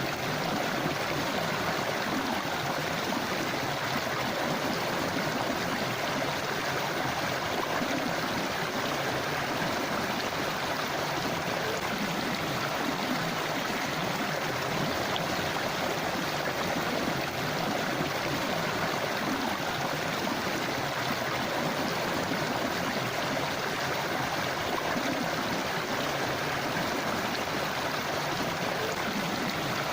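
A river flowing over stones in a forest, a steady, even rush of water with light gurgling.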